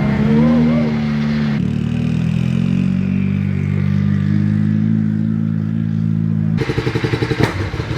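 Rally car engines running: a steady engine note with a faint falling whine above it, cutting abruptly about a second and a half in and again near the end, where it turns to a rapid, stuttering, crackling beat.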